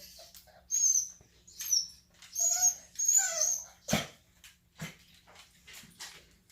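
Dog whining in four short, high-pitched whimpers, followed by a sharp knock about four seconds in and a softer one just after.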